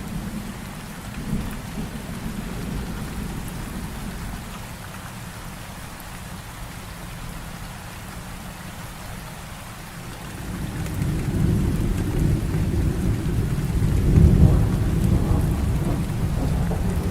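Heavy rain falling steadily through a thunderstorm. About two-thirds of the way through, a low rolling rumble of thunder builds, peaks and keeps rolling.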